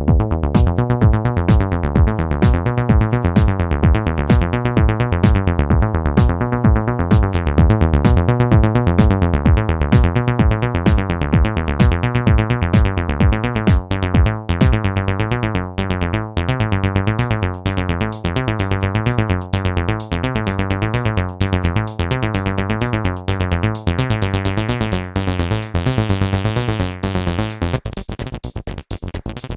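Two Behringer TD-3-MO 303-style bass synthesizers playing one repeating bass sequence in unison, unprocessed, over a drum-machine beat from a Roland JD-Xi. About halfway through, a bright hissing hi-hat-like percussion layer comes in. Near the end the bass line drops out and the drums carry on alone.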